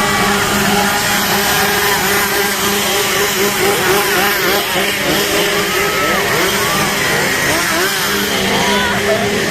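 A chainsaw's two-stroke engine running at a steady pitch, with many crowd voices and shrieks rising and falling over it.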